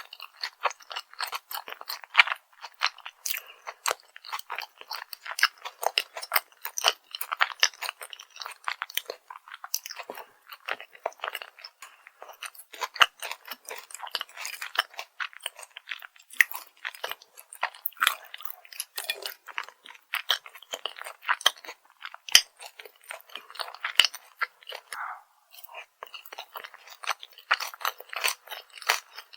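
A person chewing crunchy fried food, with rapid crisp crackles of biting and chewing and short pauses between mouthfuls.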